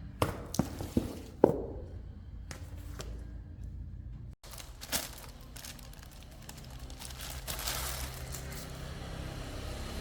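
A few sharp clicks and knocks in the first second and a half, the last the loudest, and one more about five seconds in, over a faint low steady hum.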